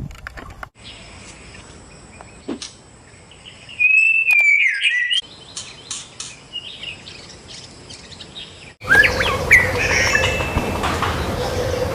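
White-rumped shama singing: short whistled phrases sliding up and down in pitch, loudest about four to five seconds in, with more chirping over heavier background noise near the end.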